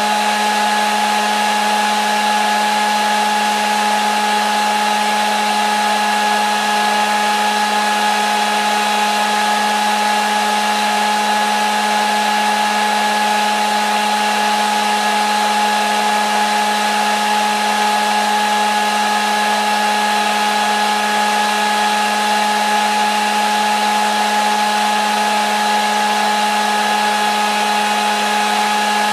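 Electric hair dryer running continuously at a constant speed: a steady blowing hiss with a fixed motor hum and whine that never changes, used as white noise to lull a baby to sleep.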